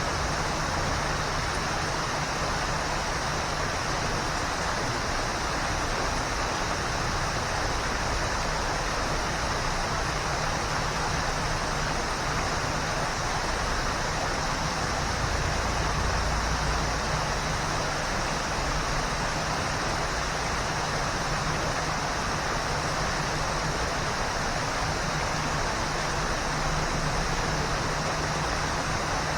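Waterfall: a steady, even rush of falling water, with a low rumble underneath that swells slightly about halfway through.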